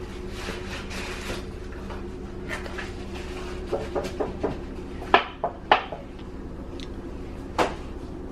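Cardboard cookie boxes being handled: soft rustling, then a run of light knocks and taps, with a few sharper clicks and knocks about five seconds in and one more near the end, over a steady low hum.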